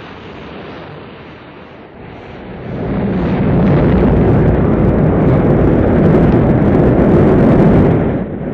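Rocket launch: the engines' noise swells about three seconds in to a loud, steady low rumble.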